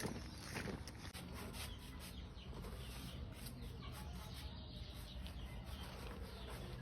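Chickens clucking faintly over a low steady rumble.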